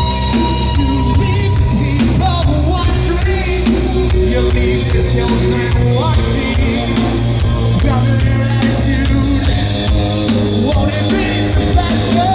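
Live rock band playing at full volume: distorted guitars, bass and a hard-hit drum kit, with a singer's voice over them.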